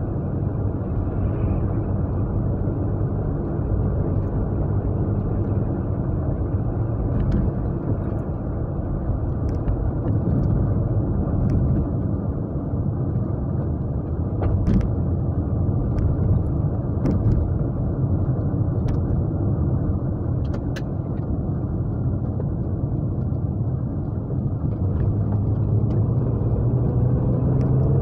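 Japanese V6 car engine and road rumble heard from inside the cabin while driving at a steady pace, a low growly drone. A few light clicks sound over it partway through.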